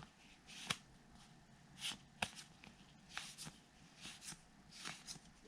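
Baseball trading cards being slid and flipped through by hand: faint swishes of card stock and light ticks, about one every second.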